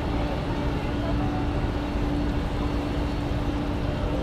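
Jet airliner engines running: a steady wash of engine noise with a constant hum.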